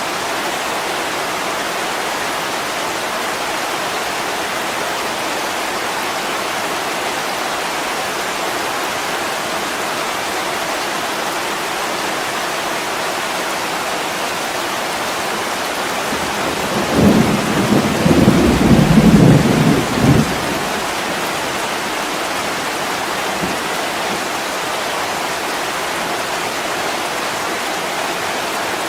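Steady heavy rain hissing on a window pane, with a roll of thunder about two-thirds of the way through that lasts some four seconds and is the loudest thing heard.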